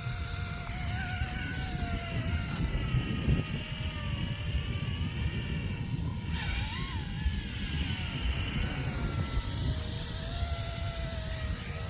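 Electric RC helicopter in flight: a motor-and-rotor whine that rises and falls in pitch as it moves and changes speed, over low wind rumble on the microphone.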